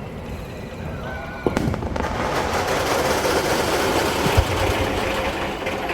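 Aerial firework shell bursting about a second and a half in, followed by a dense crackling that swells over a few seconds and then fades: a crackling-star shell, its stars popping as it breaks open.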